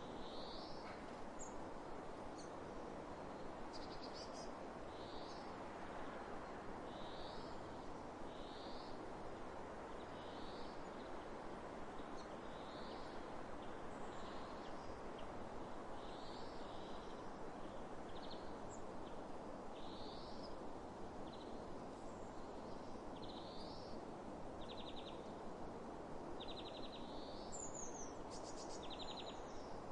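Steady wind across open fields, with a bird repeating a short call note about every second or so. Near the end, rapid trills from birds join in.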